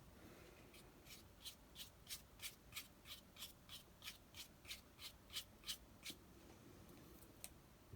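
Faint, quick strokes of a watercolour brush on paper, about three short scratchy flicks a second, laying in small feather marks; they stop about six seconds in, with a couple more near the end.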